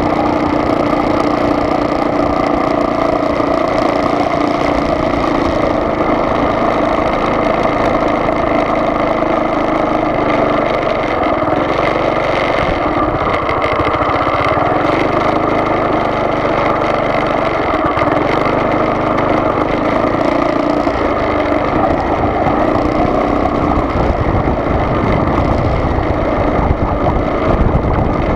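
A car driving: steady engine hum mixed with road and tyre noise, with no break.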